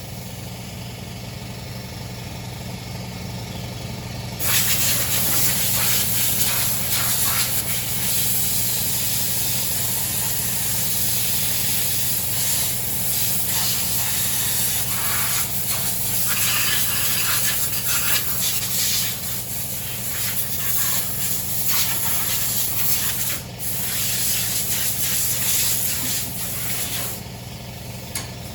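A small engine running steadily, with a loud hissing rush over it that swells about four seconds in.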